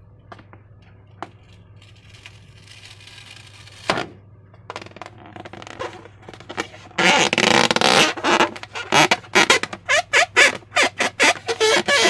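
Slime-making handling sounds: a few soft clicks, then wet squelching and sticky smacking that grow loud and busy about seven seconds in.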